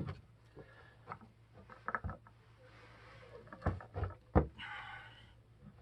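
A wrench turning a threaded gas pipe fitting tight: scattered metallic clicks and knocks, with a short scraping rasp near the end.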